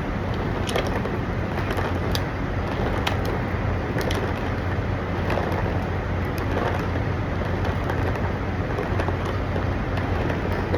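Steady low drone of idling truck engines with a constant hum, and a few light clicks scattered through it.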